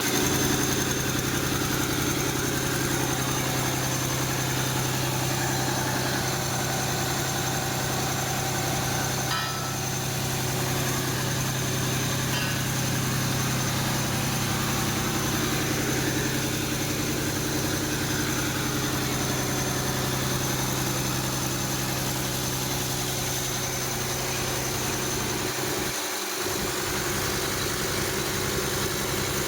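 Mercedes-Benz OM906 inline-six diesel engine idling steadily, with an even, unchanging hum. The sound dips briefly twice, about a third of the way in and near the end.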